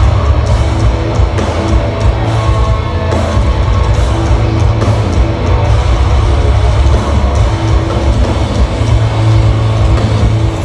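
A heavy rock band playing live at high volume: distorted guitars and drums over a strong bass low end.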